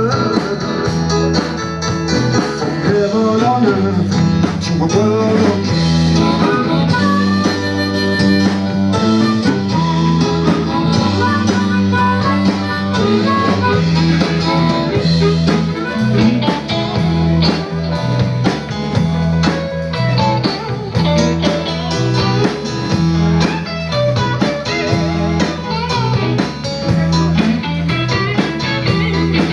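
A blues trio playing live in full swing, with a steady beat.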